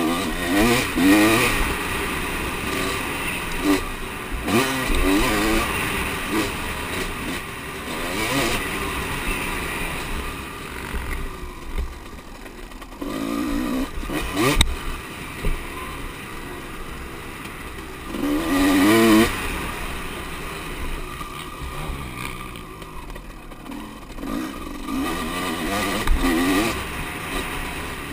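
Motocross bikes' engines revving hard in repeated surges, the pitch climbing and dropping as riders accelerate and shift, with the loudest passes about halfway through and about two-thirds of the way through. A single sharp knock is heard about halfway.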